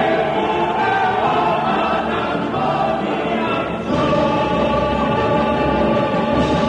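Background music with a choir singing sustained chords; the harmony shifts to a new chord a little past halfway.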